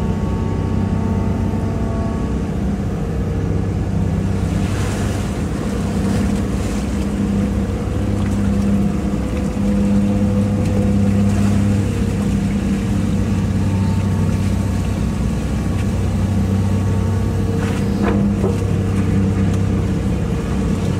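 Hitachi EX200-5 excavator's diesel engine running steadily under working load as the machine digs, its note swelling and easing with the hydraulic demand. Two brief knocks come about five seconds in and again near the end.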